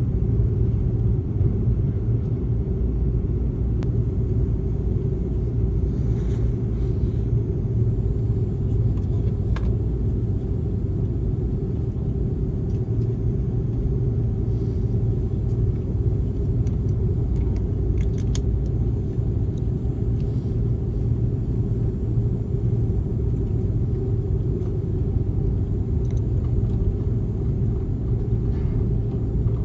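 Steady low rumble inside an airliner's cabin, the jet engines and air system running ahead of takeoff, with a couple of faint clicks.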